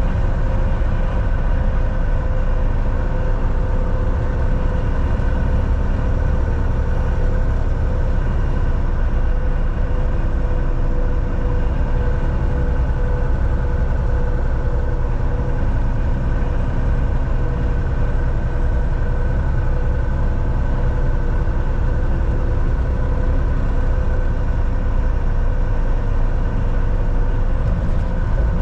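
Volvo VNL 760 semi-truck on the move, heard from inside the cab: a steady low engine drone with road rumble, holding an even pitch throughout.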